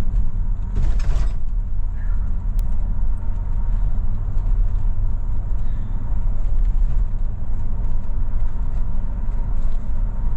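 Steady low road rumble inside a car cabin as it creeps over rough, flood-damaged bitumen, with creaks and light rattles from the vehicle. A brief rustling hiss about a second in.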